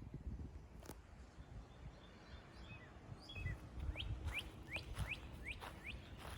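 A songbird calling a quick series of about seven short sliding chirps, roughly two a second, starting a little over two seconds in, over a low rumble on the microphone.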